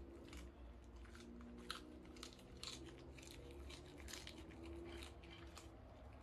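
A small pet crunching and chewing fresh vegetables, faint crisp bites coming many times in an uneven run.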